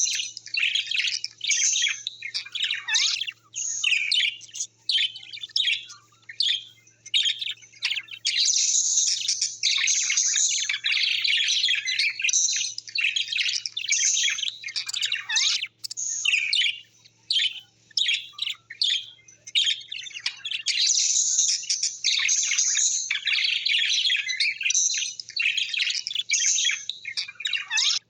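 A flock of small birds chirping and chattering in rapid high-pitched runs with short pauses, thickest about a third of the way in and again through the last part.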